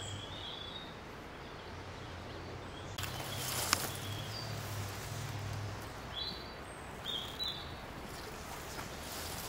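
Garden ambience: small birds chirping a few short times against a steady low hum, with a brief rustle and click about three and a half seconds in.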